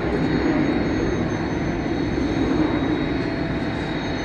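Jet airliner engines running steadily: a broad, even rumble with a faint high whine.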